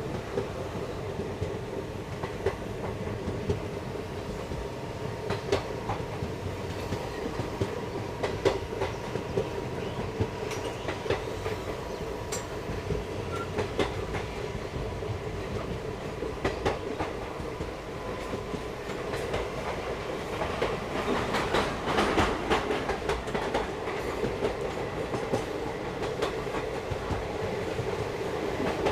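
Passenger express train running along the track: coach wheels clacking over rail joints above a steady rumble, with a louder, busier run of clacks about two-thirds of the way through.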